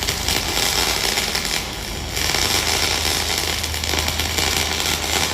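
Electric arc welding: a loud, continuous crackle and sizzle of the arc, run at full heat, over a steady low hum. The crackle eases briefly about two seconds in, then carries on.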